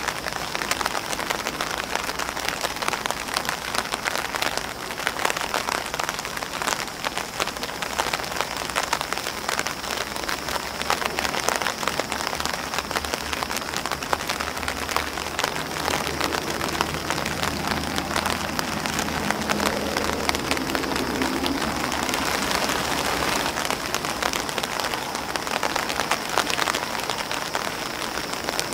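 Steady rain falling on an umbrella and on grass leaves: a dense, even patter of countless small drop ticks over a continuous hiss of rain.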